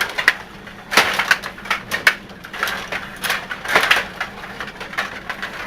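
Stiga table hockey game in play: quick clicks and clatter of the rods, players and puck, with denser rattling bursts about a second in and again near four seconds.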